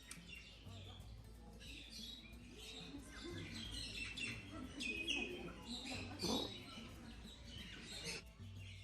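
Many small birds chirping and twittering together in quick, overlapping calls, with one louder call about six seconds in.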